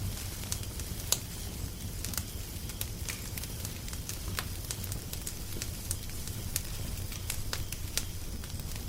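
Wood fire crackling, with irregular sharp pops over a steady low rumble; one sharper pop about a second in.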